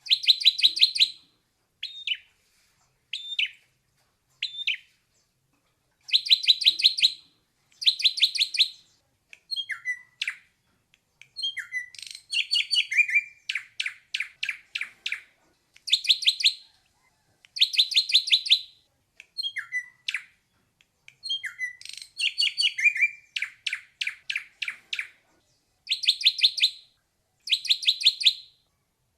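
Ashy drongo singing: repeated quick rattling trains of sharp whistled notes, about eight to a second and each train lasting a second or so, alternating with single short downslurred notes.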